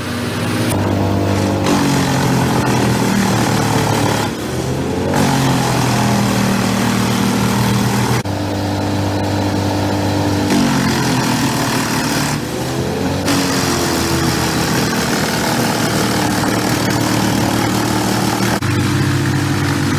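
Large wood chipper or grinder engine running loud and continuously, its pitch dropping and recovering several times as the load changes.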